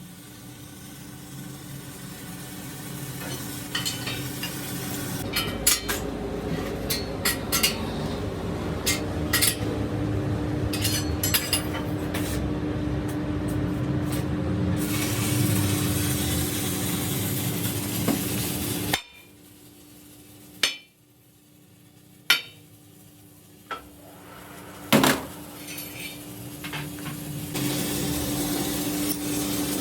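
Workshop sounds: repeated metallic clinks and knocks over a steady hum, which cut out abruptly about two-thirds of the way through and then return.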